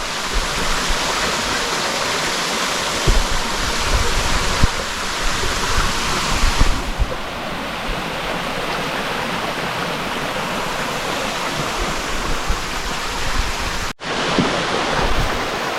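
Steady rushing noise with a few soft low thumps in the first half; its hiss thins out about seven seconds in, and it breaks off for an instant near the end.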